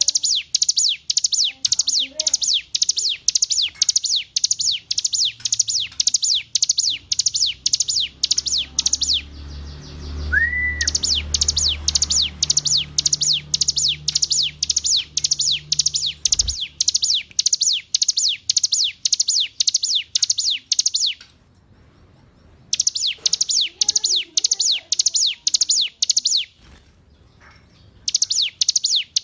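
Ciblek gunung, a prinia, singing a fast, even series of sharp high descending notes, about three a second, in long runs broken by a few short pauses. A low rumble and a single rising whistle sound in the middle.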